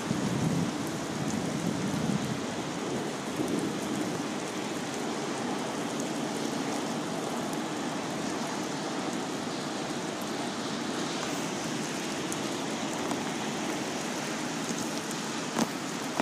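Steady rain falling, an even hiss with no break, with a few sharp clicks near the end.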